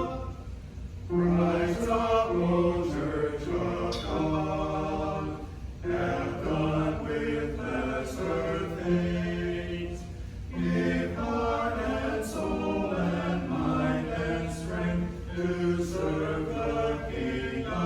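A group of voices singing a hymn in harmony, phrase by phrase, with short breaks between phrases, over a low steady hum.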